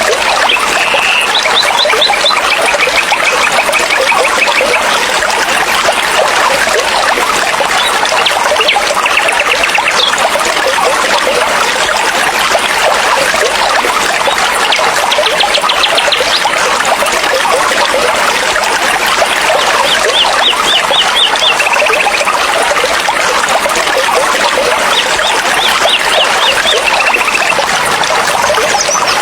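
Forest stream flowing steadily, a loud even rush of water. A bird sings short trilled phrases over it about every five seconds.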